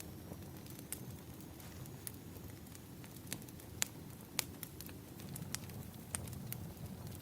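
Wood fire crackling: a steady low rustle of burning logs with sharp pops at irregular intervals, the loudest near the middle.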